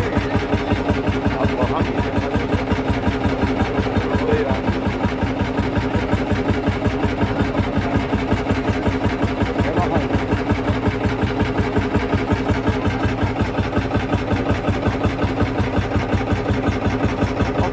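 Lanz Bulldog tractor's single-cylinder two-stroke hot-bulb engine running steadily at an even, rapid beat.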